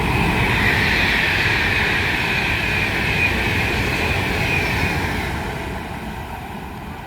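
Class 390 Pendolino electric train passing through at speed: a loud rush of wheel and air noise whose hiss slides slightly lower in pitch, fading away over the last couple of seconds.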